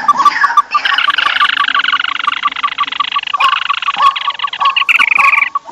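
Bird-lure recording of rice-field birds calling noisily: fast, dense chattering trills over a steady pulsing note repeated about seven times a second, the trills growing louder near the end and then breaking off.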